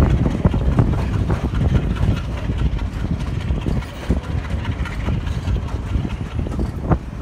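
Sri Lanka Railways passenger train running along the track, heard from a carriage window: a steady low rumble with frequent clicks and knocks of the wheels, and one sharper knock near the end.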